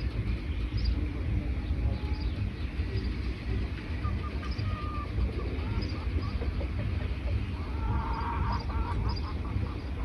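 Wild birds chirping and calling over a steady low rumble: scattered short high chirps, a brief whistle about four seconds in, and a quick run of lower repeated calls near the end.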